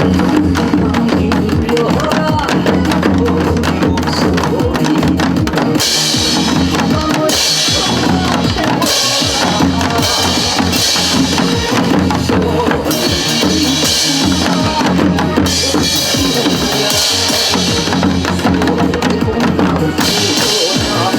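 Janggu (Korean hourglass drums) played by a group, beating along to a recorded trot backing track with a steady beat and bass line.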